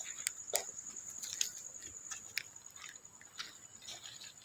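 Crickets trilling steadily at one high pitch, with scattered crunching clicks of footsteps through dry forest undergrowth.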